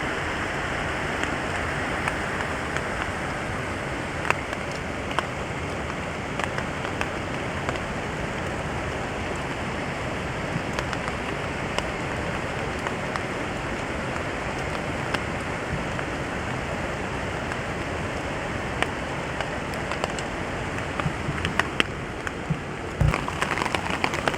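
Steady rain falling on a hammock tarp, a continuous hiss with scattered individual drops ticking on the fabric. The ticks grow denser and louder near the end.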